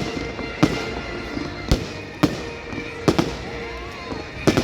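Fireworks display going off: a run of sharp bangs, seven or so, coming irregularly about every half second to second, some in quick pairs.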